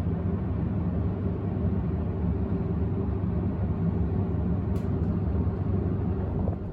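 Abukuma Express 8100 series electric train running, heard from on board: a steady rumble with a low hum through it.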